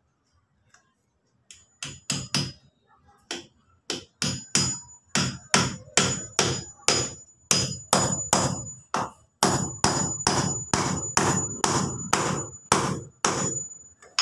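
Hammer driving a big nail into used lumber: a long run of steady blows, two to three a second, starting about a second and a half in, with a thin high metallic ring carrying through much of it.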